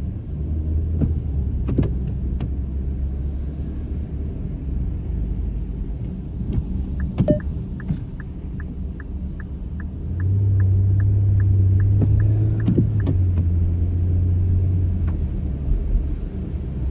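Car running on a wet road, heard from inside the cabin as a steady low rumble. It rises to a louder drone for about five seconds past the middle. Through the middle runs a string of quick, even ticks, about three a second.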